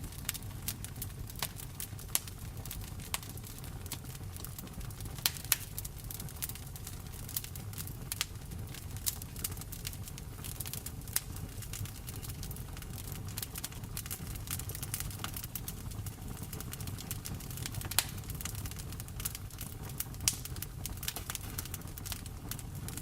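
Wood fire in a fireplace crackling, with sharp pops at irregular intervals, a few of them much louder, over a steady low rumble.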